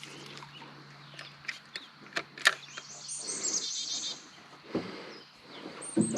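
Songbirds singing short repeated trills over the low steady hum of a battery-powered electric boat motor, which cuts out about three-quarters of the way through. A few sharp clicks, the loudest about halfway.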